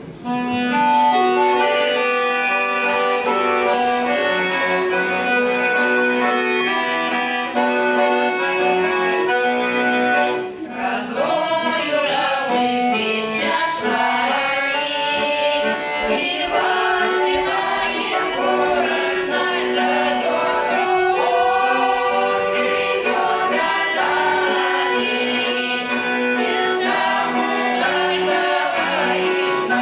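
Accordion playing an introduction of sustained chords; about ten seconds in, a vocal ensemble starts singing a Russian folk song over the accordion accompaniment.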